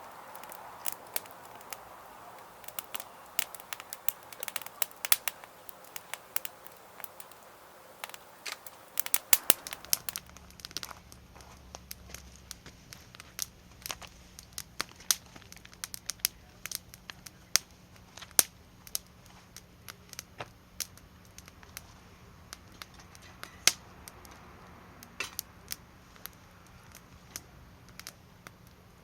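Wood campfire crackling, with sharp, irregular pops of burning wood, some much louder than others.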